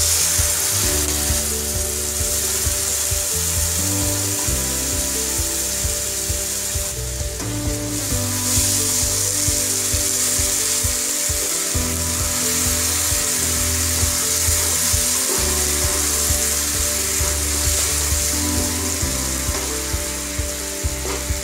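Sliced onions frying in hot oil in a pan, a steady sizzle throughout.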